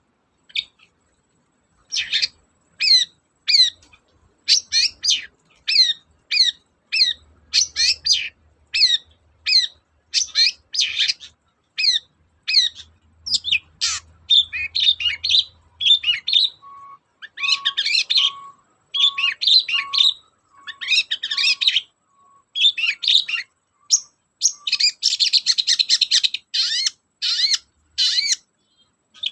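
Long-tailed shrike singing a fast run of short, sweeping high notes, about two a second, that turns into dense scratchy chatter near the end.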